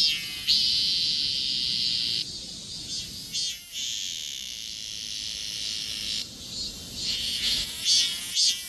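Cicadas singing: pulsed calls at about two a second at the start, giving way to a steady high buzz that breaks off about two seconds in, resumes about a second and a half later, then returns to the pulsing near the end.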